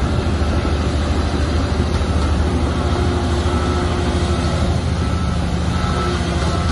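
Shantui bulldozer's diesel engine running steadily and loudly, with a dense mechanical noise over a deep, even engine tone.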